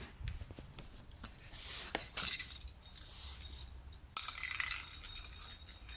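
Metallic jingling and clinking of a small cat toy ball as it is batted and rolled around, in two bouts that start suddenly about two seconds in and about four seconds in.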